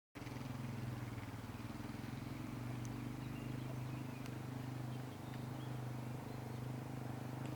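A vehicle engine running steadily: a low, even drone with a fast fine pulse.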